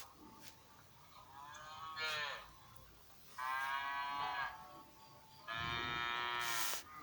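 Cow mooing three times, the second and third calls longer and louder than the first.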